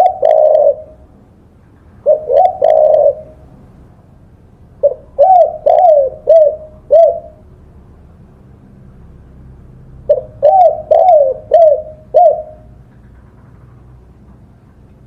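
Spotted dove cooing. Four phrases of arched, rising-then-falling coos come a few seconds apart, and the two longer phrases run to about five notes each.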